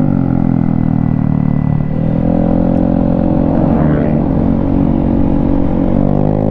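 Motorcycle engine running on the road. Its revs drop at the start, pick up again about two seconds in, then hold steady.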